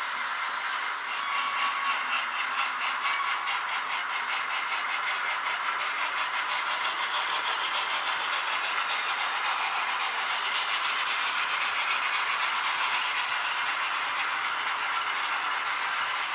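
H0-scale model trains running: the steady whirr of small motors and wheels rolling on the rails, with rapid ticking during the first half.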